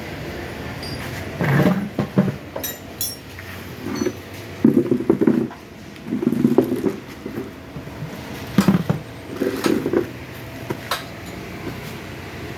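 Irregular knocks, clanks and clicks of hand-tool work on a motorcycle, over a steady background noise.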